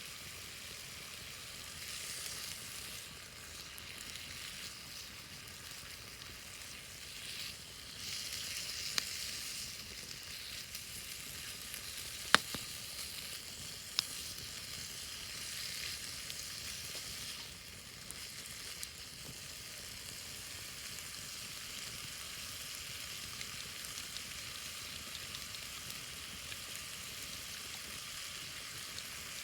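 Wood fire burning, a steady crackling hiss with a few sharp pops, the loudest about twelve seconds in.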